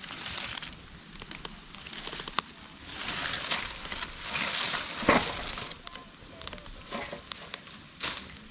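Wood campfire crackling, with scattered sharp pops and a louder swell of hissing and crackle in the middle; the loudest pop comes about five seconds in.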